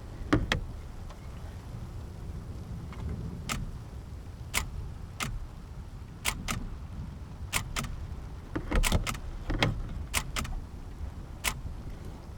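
Wind rumbling on the microphone during a thunderstorm, with scattered sharp ticks of large raindrops striking a hard surface at irregular intervals.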